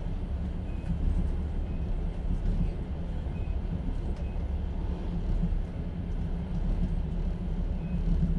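Steady low rumble of a passenger train carriage on the move, heard from inside an open-plan platzkart sleeping car, with a few faint short squeaks.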